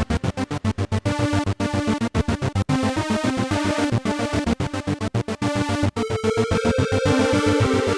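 Electronic music played live on a Korg Electribe 2 groovebox: a fast, pulsing synth and drum pattern. About six seconds in, a new held synth line comes in above it.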